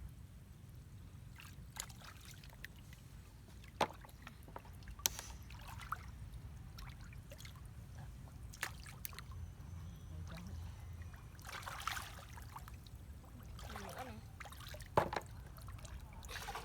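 Small splashes and knocks in shallow water, spaced a few seconds apart, over a steady low rumble.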